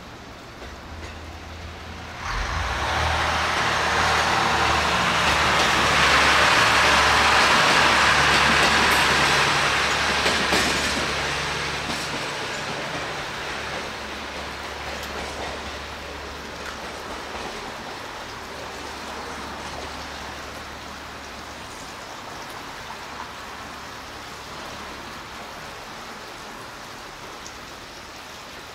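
JR East HB-E300 series hybrid diesel railcar running along the track, its diesel generator engine humming under the noise of the train on the rails. The sound rises sharply about two seconds in, is loudest a few seconds later as the train comes close, then slowly fades.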